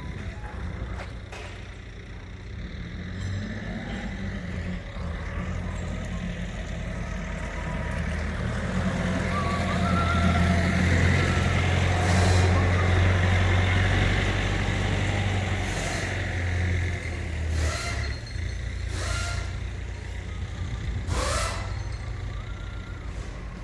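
A motor vehicle's engine running steadily, growing louder toward the middle, with several brief sharp noises over it.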